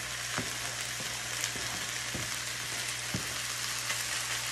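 Chicken pieces and freshly added sliced bell peppers frying in a hot pan, a steady sizzle, with a few light taps as the vegetables are scraped off a cutting board into the pan.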